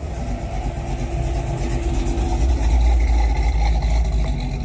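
A car engine running, its low rumble growing louder over the first three seconds and easing off near the end.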